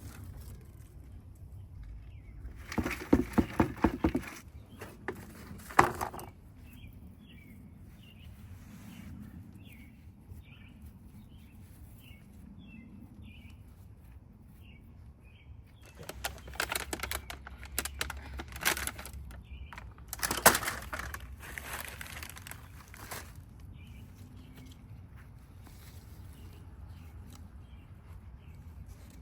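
Hand gardening work: bursts of rustling and rapid knocking, a cluster about three seconds in, another just after, and a longer run past the middle. Small birds chirp faintly in the quieter stretches between.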